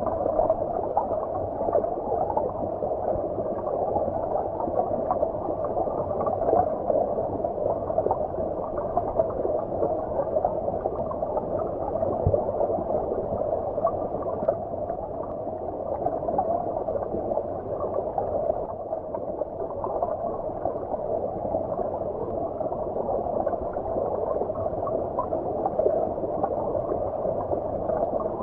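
Stream water heard underwater: a steady, muffled gurgling rush with no bright high end.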